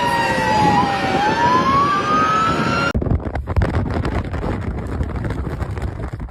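An emergency vehicle siren wails, its pitch falling and then rising, over heavy wind noise. About three seconds in, the sound cuts off abruptly and leaves only a gusty low rumble of wind buffeting the microphone.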